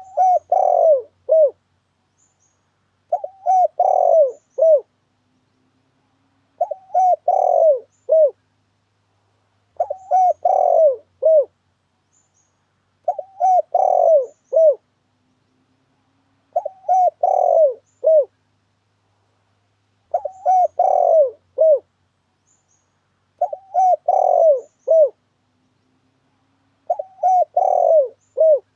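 Spotted dove (tekukur) cooing: a short phrase of about four coos, the second and longest in the middle, repeated nine times at even spacing about every three and a half seconds with silence between. It is a recorded lure call, played to draw doves to a trap.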